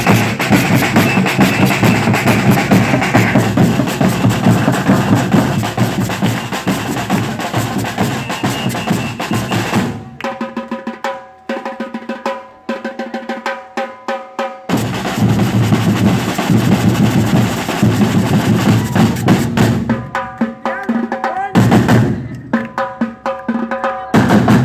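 Samba batucada percussion ensemble playing a dense, driving drum groove. It has two breaks, about ten and twenty seconds in, where the bass drums drop out and a lighter, pitched pattern plays before the full groove comes back.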